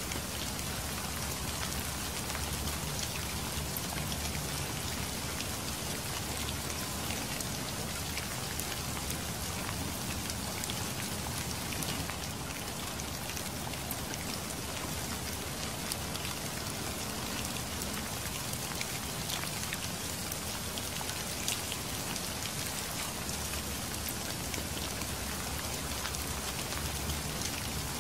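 Steady rain falling, an even hiss scattered with many small drop ticks over a faint low rumble.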